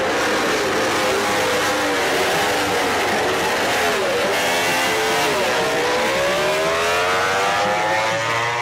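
MotoGP racing motorcycles' 1000 cc four-cylinder engines at full racing revs, several bikes together. Their pitch drops as they brake and change down for a corner, then climbs steadily through the last few seconds as they accelerate out.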